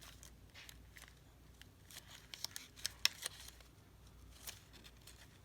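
Faint handling noise of paper and small craft supplies on a desk: scattered light clicks and ticks, a few sharper ones near the middle.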